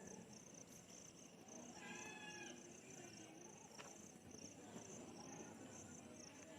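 Crickets chirping steadily in a quiet background, with one short high animal call lasting about half a second, around two seconds in.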